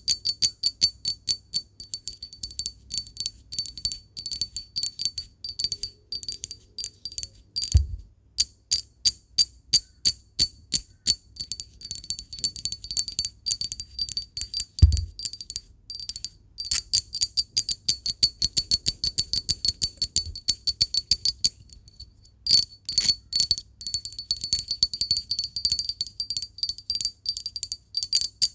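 Rapid tapping on glass, several taps a second, each tap leaving a high ringing tone. Two dull, heavier knocks come about a third and halfway through, and the tapping pauses briefly now and then.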